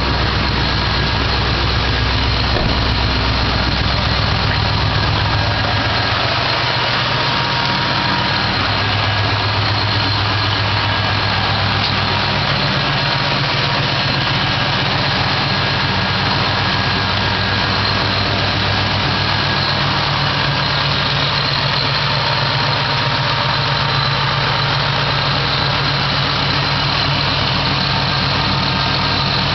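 2004 Ford Mustang SVT Cobra's supercharged 4.6-litre V8 idling steadily. Its low note shifts a little in the first ten seconds or so and then holds.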